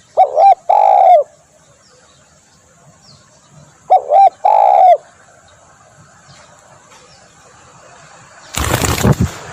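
Spotted dove cooing: two phrases about four seconds apart, each two short coos followed by one longer falling coo, the call used as a lure for trapping tekukur. Near the end a sudden loud burst of noise cuts in.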